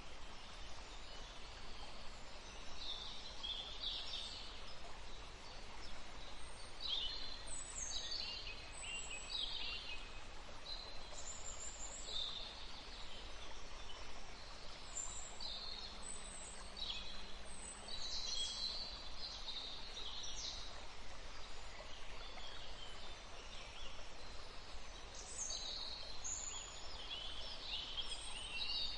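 Several songbirds singing and calling over a steady low hiss of running water from a forest stream.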